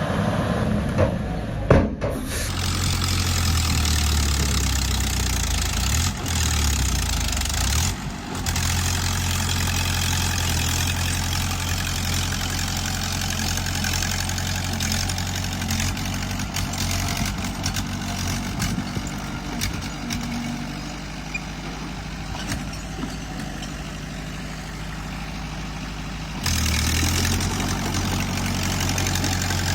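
Heavy diesel engine of earthmoving machinery running steadily. The sound changes abruptly about two seconds in and again near the end.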